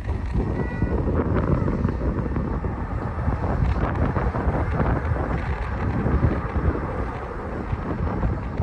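Wind buffeting a phone's microphone, a continuous choppy low rumble.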